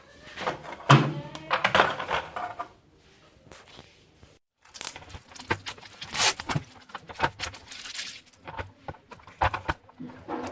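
Handling noises from work on a microwave oven's panel: irregular clicks, light clatter and crinkly rustling in two spells, with a short quiet gap between them.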